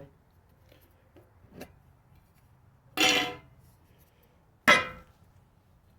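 Small metal tin clinking twice, about a second and a half apart, each strike ringing briefly.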